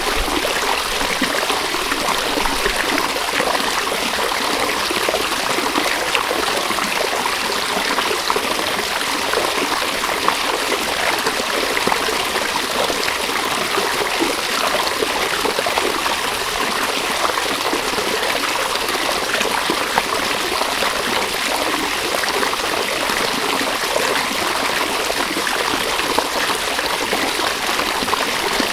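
River water flowing and babbling over stones, a steady rushing with fine trickling and splashing detail throughout.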